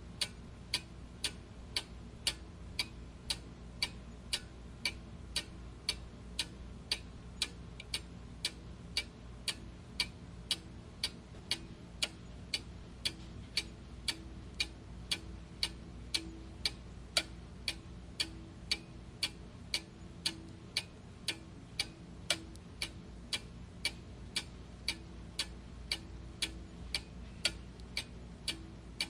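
A clock ticking steadily with even, sharp ticks, about two a second, over a faint low hum.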